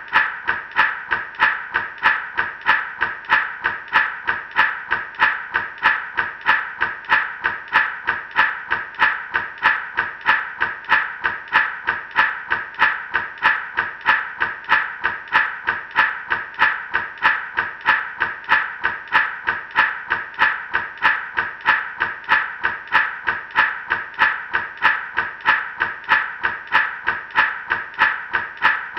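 Gourd rattle (shaman's maraca) shaken in a steady, even rhythm, about two to three rattling strokes a second.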